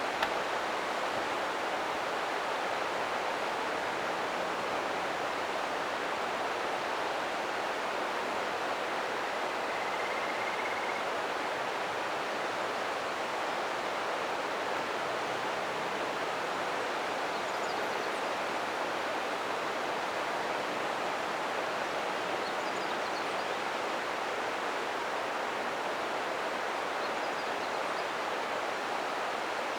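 Ōta River flowing over rocks: a steady rushing of running water. A faint short chirp sounds about ten seconds in.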